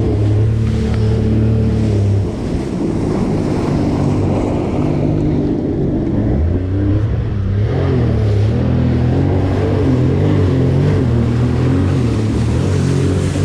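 Jet ski engine running at speed, its pitch and level dropping about two seconds in as the throttle eases, then climbing again a few seconds later, over rushing water and wind.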